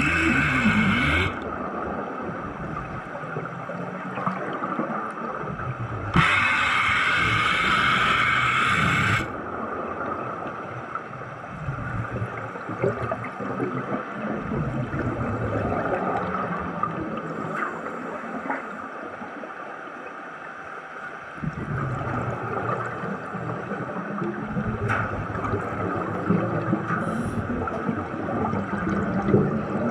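Underwater bubbling and gurgling, broken twice by a loud hiss lasting a few seconds, once at the start and again about six seconds in, typical of a commercial diver's helmet breathing gear: the hiss of gas on the inhale and exhaust bubbles.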